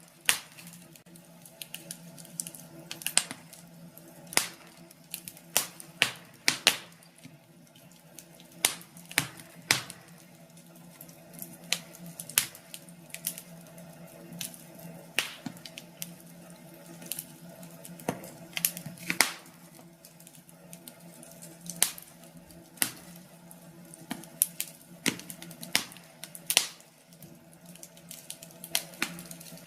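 Wood fire crackling in a fireplace: irregular sharp pops and snaps, about one or two a second, some much louder than others, over a faint steady hum.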